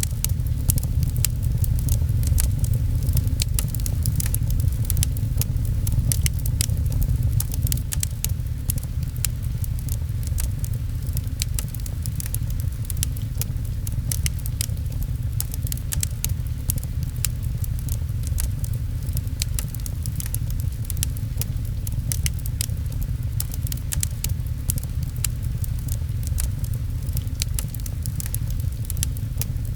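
Wood fire crackling with many small, sharp pops, over a steady deep rumble and the patter of rain.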